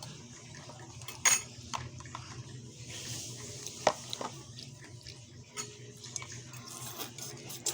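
Eating utensils clinking and scraping against a bowl during a meal of instant noodles, with a few sharp clinks spread through.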